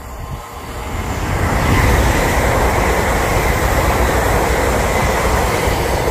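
Electric multiple-unit passenger train passing close at speed: a steady rush of wheels on rail and moving air that swells to full loudness about two seconds in and holds there as the carriages go by.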